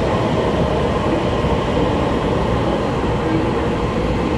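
A Taiwan Railway EMU3000 electric multiple unit running past on the platform track, its wheels and running gear making a steady loud rolling noise.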